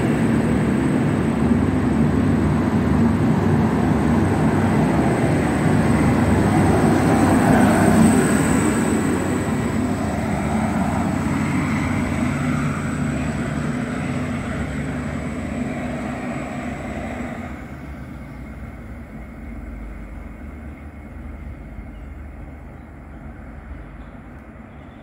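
V/Line train running, a dense rumble with a thin steady high tone over it. The sound fades from about a third of the way in and drops off sharply about two-thirds through, leaving a faint background.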